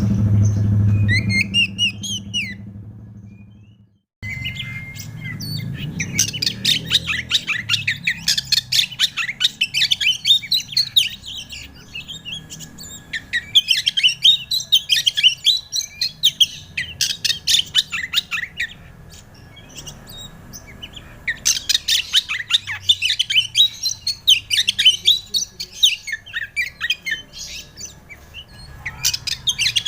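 Oriental magpie-robin (kacer) singing a fast, varied song of sharp whistles and chattering notes, used as a lure recording to trigger another kacer to sing. Its song starts after a brief cut-out near the fourth second, with a short lull about two-thirds of the way through; a low hum runs underneath.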